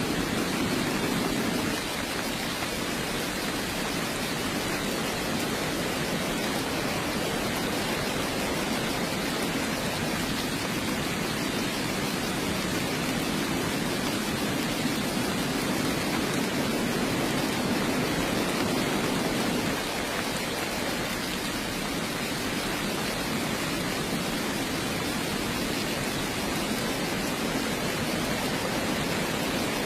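Steady heavy rain, an even rushing hiss with no single drops standing out, dipping slightly in level about two seconds in and again about twenty seconds in.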